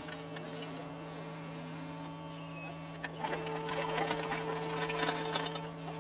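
John Deere 75 excavator's engine running with a steady buzzing hum; about halfway through, knocks and clattering from the working machine grow louder over it.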